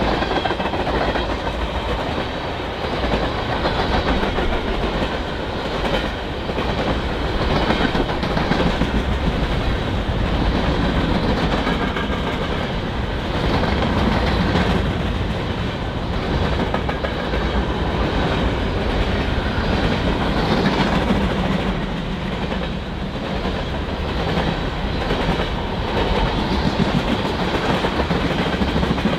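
Freight train cars rolling past, a steady rumble of steel wheels on rail that holds at the same loudness throughout.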